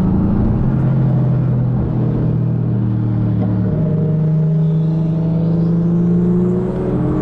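Loud turbocharged car engine running at low revs, its note climbing slowly, with a high turbo whistle rising in pitch through the second half.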